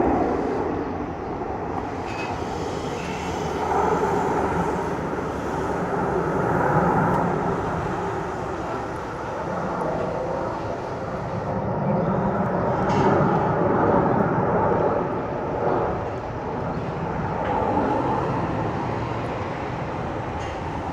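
Aircraft engine noise at an air show, a continuous rumble that swells and fades several times as aircraft pass.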